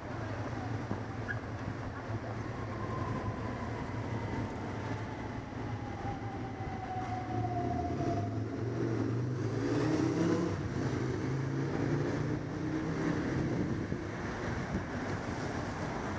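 Steady vehicle rumble with a thin whine that slowly falls in pitch over several seconds, growing a little louder near the middle.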